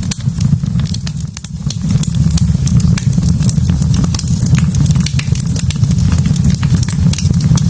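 Wood fire burning in a fireplace, crackling with many sharp pops and snaps over a steady low rumble.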